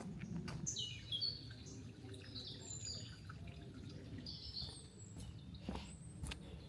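Wild birds calling in a forest: a run of high chirps and short falling calls, busiest in the first half, over a low steady rumble. A few sharp clicks stand out near the end.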